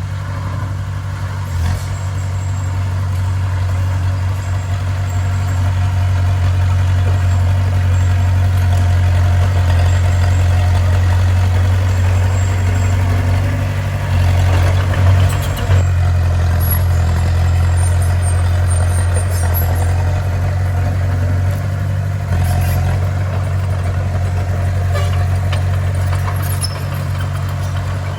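Bulldozer's diesel engine running steadily at a low, constant drone, with a brief surge about halfway through.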